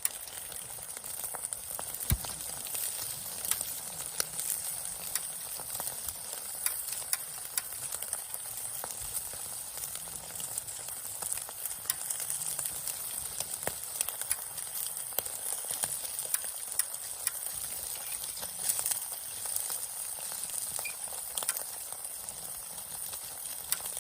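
Wood campfire crackling with scattered sharp pops over a steady high sizzling hiss, with foil-wrapped bacon cooking in it. The sharpest pop comes about two seconds in.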